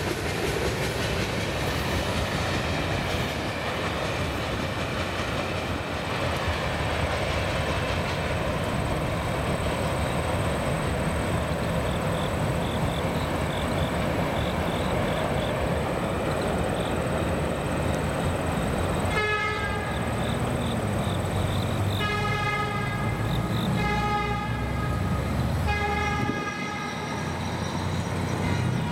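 Freight cars rolling past with steady wheel-on-rail noise. About two-thirds of the way in, a train horn sounds several blasts, the later ones longer.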